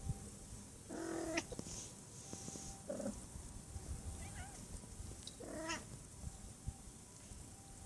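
Cat meowing, four separate calls, the third faint and higher-pitched.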